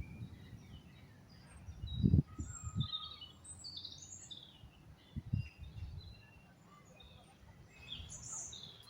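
Several small birds chirping and calling in short, scattered notes, with a few low thumps about two, three and five seconds in.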